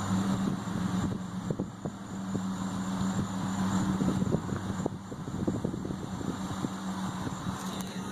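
A steady low mechanical hum, like a running motor, with scattered soft clicks and crackles over it.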